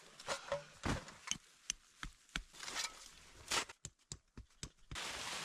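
A string of short, irregular knocks and clicks, like gear being handled. Near the end a steady hiss starts suddenly.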